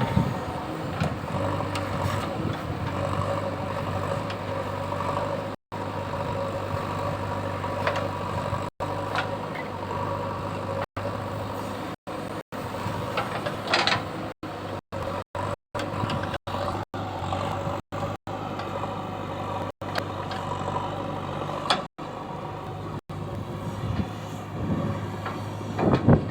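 Diesel engine of a JCB 3DX backhoe loader running steadily while it works, broken by many brief silent gaps, with a few short rattles partway through.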